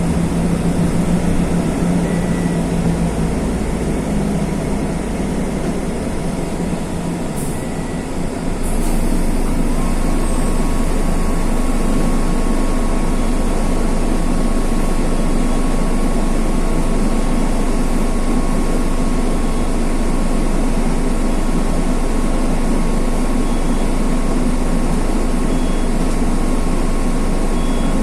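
Mercedes-Benz OF-1519 bus's OM-924 LA four-cylinder turbodiesel engine running. It eases off briefly around seven to eight seconds in, with a couple of short clicks, then picks up and runs steadily and louder, with a faint high whine from about ten seconds in.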